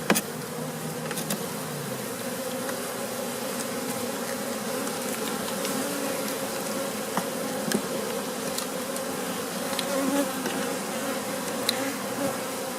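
Honey bees buzzing steadily around an open hive, a dense colony hum with a few faint clicks of handling.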